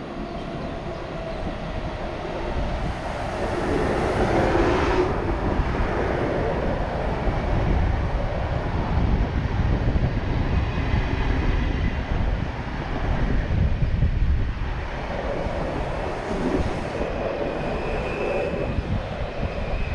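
Electric passenger train running along the tracks beneath the camera: a steady rumble of wheels on rails that swells over the first few seconds as it comes under, with a faint high tone in the second half.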